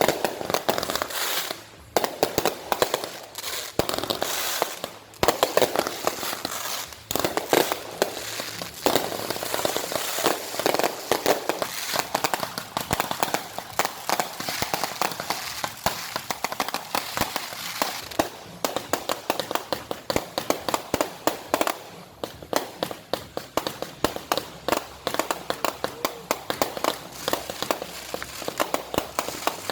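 Fireworks going off in rapid succession: dense crackling and popping, many reports a second, with brief lulls between volleys.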